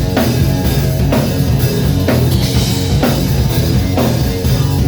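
Live rock band playing the instrumental opening of a song: electric guitar and bass over a drum kit keeping a steady beat.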